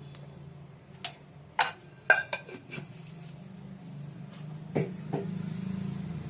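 A spoon clinking and knocking against a metal kadhai and utensils, about six sharp strikes spread unevenly, over a low steady hum.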